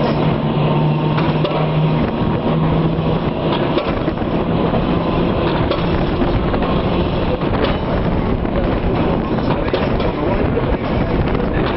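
Electric heritage tram running along its tracks, heard on board: a steady rumble of wheels on rails with scattered knocks, and a low motor hum that fades out in the first few seconds.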